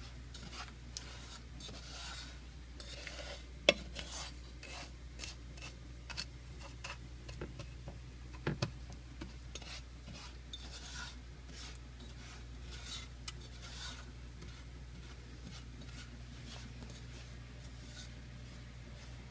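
A utensil stirring and scraping melting sugar in a pan as it turns to caramel, with scattered light clicks and two sharper knocks, about four and eight and a half seconds in, over a steady low hum.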